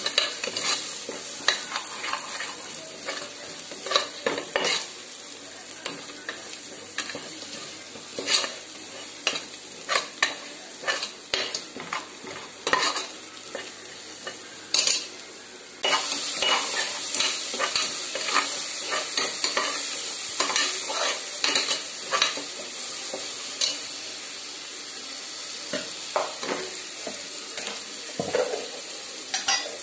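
Chicken frying in a pot, sizzling steadily, with a spoon scraping and clinking against the pot as it is stirred. The sizzle suddenly gets louder about halfway through.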